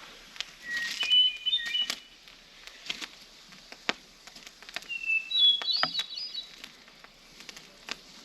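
A songbird calling in two short phrases of high chirping notes, one about a second in and one around the middle, over scattered sharp clicks and ticks.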